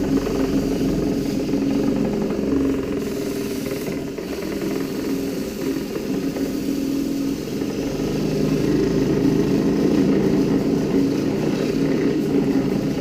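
Storch Tornado roller cleaner spinning a paint roller at speed under the water jet, a steady whirring hum with water spraying off the roller as coloured paint washes out of the nap. It eases a little in the middle and picks up again later on.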